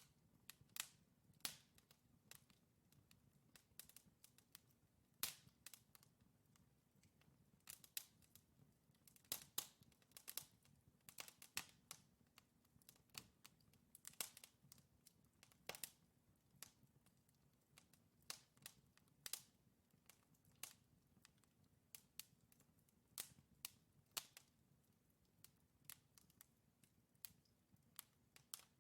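Wood logs burning in a fireplace, crackling with sharp, irregular pops and snaps several times a second over a faint low hum of the fire.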